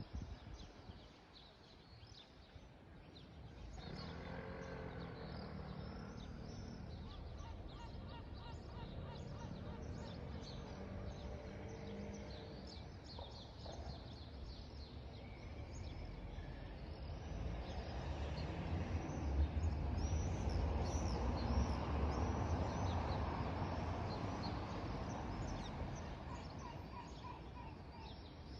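Birds chirping while a motorcycle engine is heard in the distance from about four seconds in, then comes closer, loudest about twenty seconds in, and fades away near the end.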